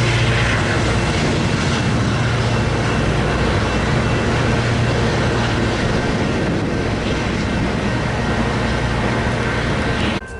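A train passing close by: a steady loud rumble with a low hum and rail noise, cutting off suddenly near the end.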